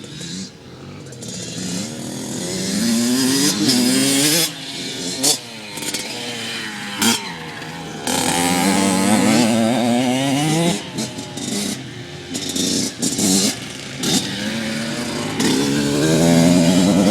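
Dirt bike engines revving through repeated accelerations, the pitch climbing and dropping back as the rider shifts and backs off, louder at times as the bikes come near.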